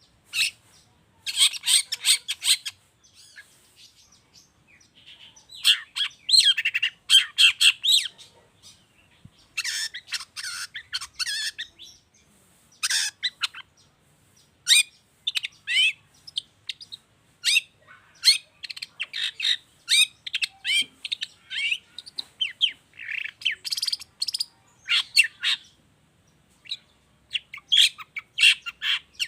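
Long-tailed shrike singing in rapid bursts of chirps and trills, phrases of one to two seconds with short pauses between them. Its song is packed with mimicked calls of other birds.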